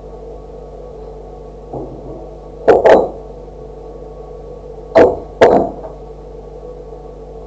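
Four sharp knocks in two pairs, the first pair a little under three seconds in and the second about five seconds in, over a steady electrical hum.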